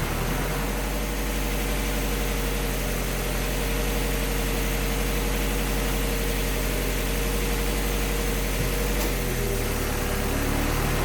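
Car engine idling steadily while warming up, the thermostat not yet open during a coolant bleed. A thin steady whine sits over the idle and fades out near the end.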